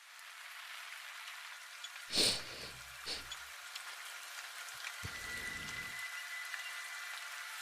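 Steady rain falling, with a sudden loud knock about two seconds in and a smaller one a second later.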